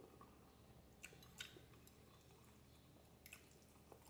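Faint chewing of spaghetti with sausage: a few soft, short mouth clicks over a low steady hum.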